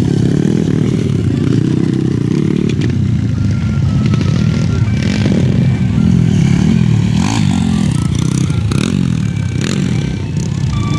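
Motocross motorcycle engines running and revving, their pitch rising and falling again and again, with music playing alongside.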